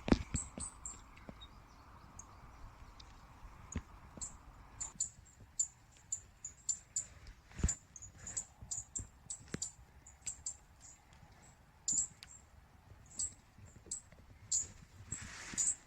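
Small birds calling: short, very high chirps and ticks at irregular intervals, with a few sharp knocks or clicks mixed in, the loudest a little before the middle.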